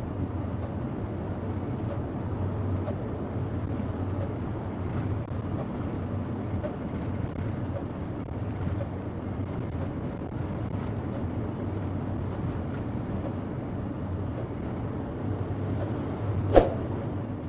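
Scania HT coal-hauling truck running steadily, its engine and road noise a low drone heard inside the cab. One sharp click comes near the end.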